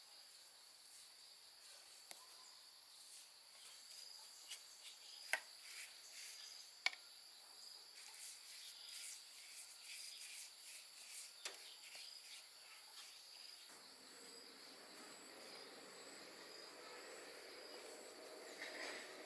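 Faint, steady insect chirring, cricket-like, with a few sharp clicks or taps; a faint low hum joins about two-thirds of the way through.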